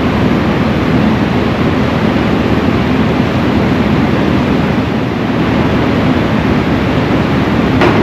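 A vehicle running steadily: a constant engine and road rumble, with a short sharp click near the end.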